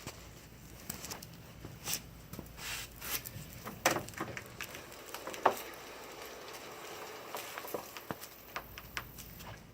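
Scattered scuffs, clicks and knocks, with two sharper knocks about four and five and a half seconds in, over a faint low hum: footsteps and handling as a pickup is pushed back by hand and wheel chocks are set.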